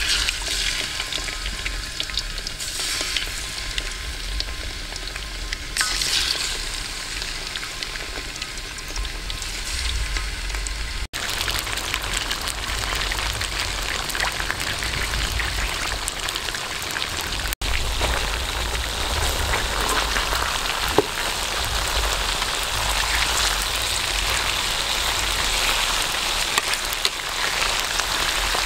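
Stingray pieces deep-frying in hot oil in a wok: steady sizzling and bubbling, flaring louder in the first few seconds as raw pieces are lowered into the oil, then thickening into a dense, even sizzle. The sound cuts out for an instant twice.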